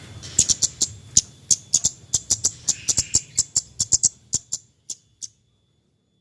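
Kemade bird giving the rapid, sharp 'cret-cret' chips called nyecret: short high clicks repeated about three or four a second. They thin out and stop about five seconds in.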